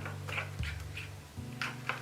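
Kittens giving several short, high mews in quick succession, over a low steady hum.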